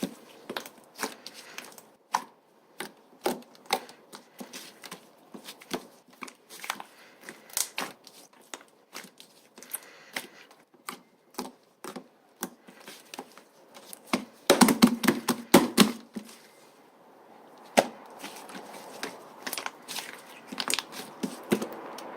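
Slime being squished and pressed by hand, giving a string of irregular sharp clicks and pops, with a denser, louder run of them about two-thirds of the way through.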